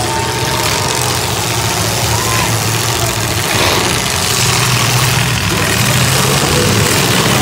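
Engines of several full-size demolition derby cars running and revving as they shove against each other, with a steady mix of engine noise that grows a little louder about halfway through.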